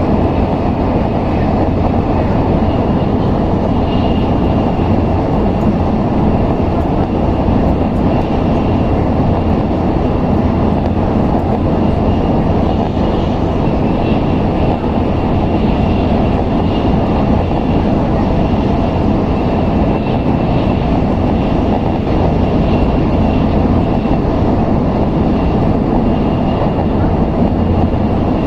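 Steady running noise of an N700S Shinkansen train at speed, heard from inside the passenger car: an even low rumble with a faint high whine above it.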